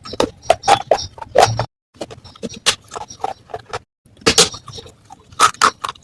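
Close-miked crunching of baked clay matka pieces being bitten and chewed: an irregular run of sharp, crackly crunches, twice broken by a short dead-silent gap.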